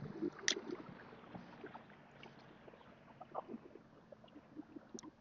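Quiet, with faint scattered small clicks and knocks, a sharper click about half a second in and another near the end.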